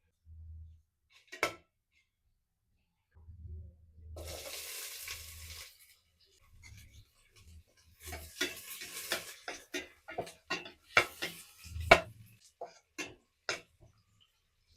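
Cooking in a pan: a couple of seconds of sizzling, then a spoon stirring and knocking against the pan in a run of sharp clinks.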